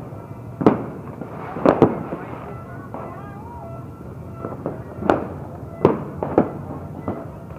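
New Year fireworks bursting: about six sharp bangs, irregularly spaced, some in quick pairs, each with a short crackling tail.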